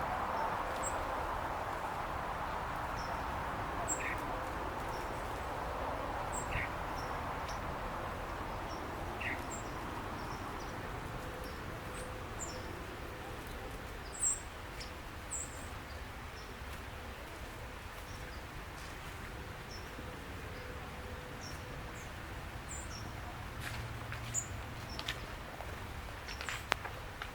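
Small songbirds giving short, high chirps again and again over steady outdoor background noise that fades during the first ten seconds. A few sharp clicks near the end.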